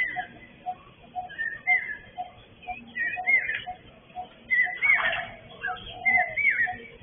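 Birds calling: one repeats a short low note about twice a second while others give higher rising-and-falling whistled notes, with one louder, harsher call about five seconds in.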